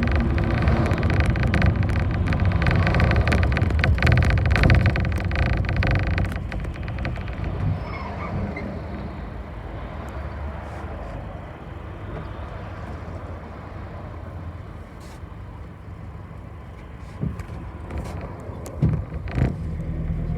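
A bus engine running loud and steady, heard on board; about six seconds in it drops suddenly to a quieter rumble, with a few knocks and clunks near the end before the engine picks up again.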